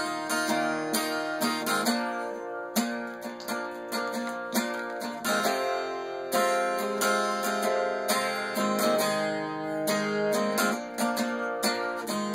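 Acoustic guitar strummed in chords, a steady instrumental break with no singing.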